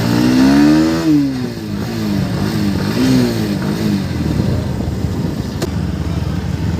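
Motorcycle engine revving up and easing off about a second in, then two shorter revs before settling into a steady run.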